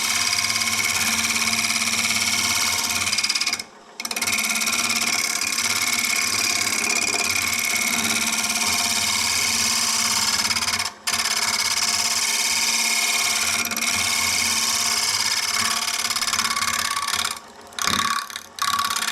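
Wood lathe running with a turning tool cutting the spinning mesquite bowl blank, a steady hiss of cutting over the motor's hum. The sound cuts out briefly three times: about four seconds in, about eleven seconds in, and twice near the end.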